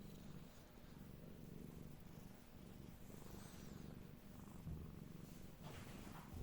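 Domestic cat purring steadily, a faint low throb.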